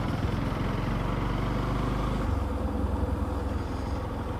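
Motorcycle engine running while riding, its note dropping a little about halfway through.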